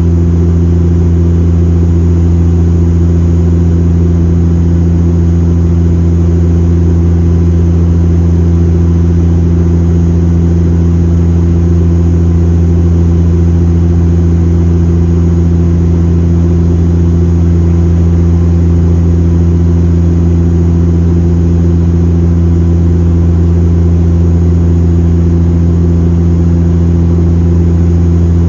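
Airplane in flight heard from inside the passenger cabin: a loud, steady engine drone with a strong low hum that holds unchanged throughout.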